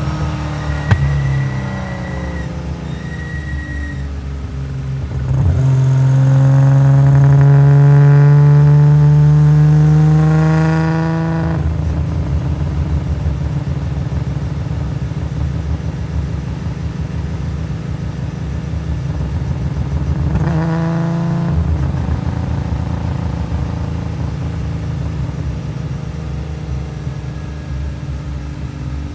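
Nissan S20 2.0-litre twin-cam straight-six of a race-tuned Skyline GT-R running at low revs with a lumpy rumble. From about six seconds in it pulls up steadily through the revs for about five seconds, then drops back. There is a second short rise in revs a little past twenty seconds.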